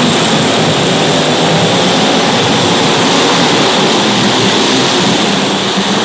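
Engines of several small race cars running together at speed on the track, a loud, steady blend of overlapping engine notes.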